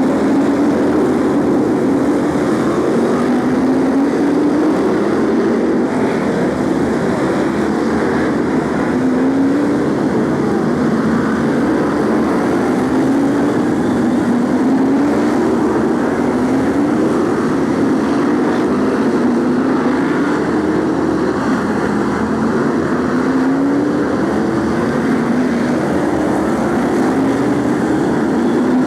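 BriSCA F1 stock cars' V8 engines racing on a short oval, a continuous loud engine noise. Their pitch rises again and again, about every two seconds, as the cars accelerate out of the bends.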